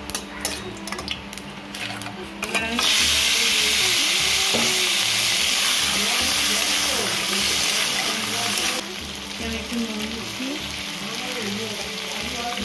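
Small crabs frying in hot oil in a kadai: a light crackle and spatula scrapes from the tempering spices at first, then about three seconds in a sudden loud, steady sizzle as the crabs hit the oil, dropping to a quieter sizzle some six seconds later as they are stirred.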